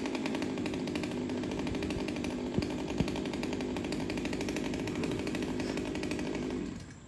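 Chainsaw engine running steadily, then dying away near the end.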